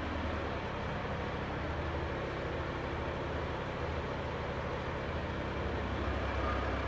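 Volkswagen Touareg 2.5 L BAC five-cylinder TDI diesel engine running steadily at an even speed.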